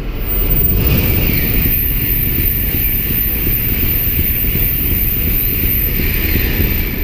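Shinkansen bullet train passing through a station at high speed close by: a loud, steady rush of air and rumble, with wind buffeting the microphone.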